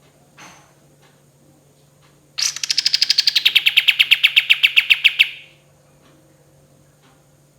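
A kapas tembak songbird giving one rapid rattling trill of about ten notes a second, starting about two seconds in and lasting about three seconds. The trill dips slightly in pitch at first, then holds steady before stopping. This is the bird's fast 'roll' or 'tembakan' burst.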